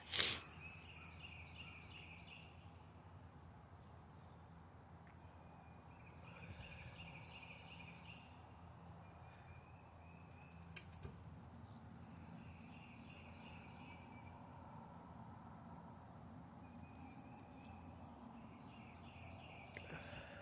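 A songbird singing faintly, repeating a short song of rapid high notes about every four to five seconds, over a low steady background hum. A single sharp click sounds just after the start.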